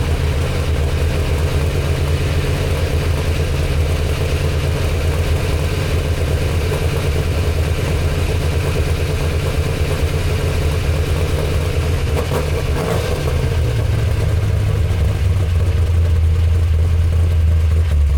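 LS-swapped 6.0-litre V8 in a 1986 Chevrolet C10 pickup running steadily. About 13 seconds in it briefly rises in pitch, then settles and runs a little louder.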